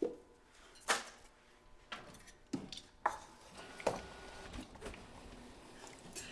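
Kitchenware being handled: about six separate light clinks and knocks spread over several seconds.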